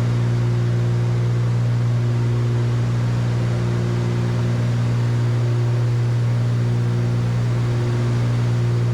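Steady cabin drone of a Cessna 310Q's twin piston engines and propellers in flight: an even, low hum with higher tones above it that holds unchanged throughout.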